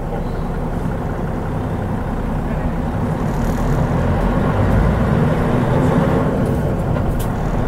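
Turbocharged Mitsubishi 6M70 inline-six diesel of a Mitsubishi Fuso Aero Star non-step city bus running under way, with road noise heard from inside the cabin. The low engine rumble grows louder around halfway through.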